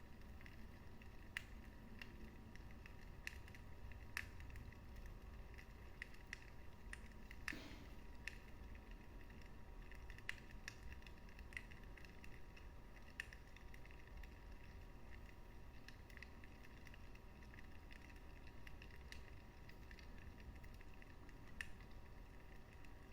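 Wood fire in a fireplace crackling: irregular sharp pops and snaps over a soft low rumble of the flames, with one stronger pop about seven and a half seconds in.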